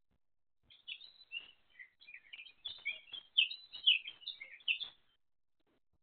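A small bird singing a rapid, jumbled run of short, high chirps and twitters for about four seconds, starting just under a second in.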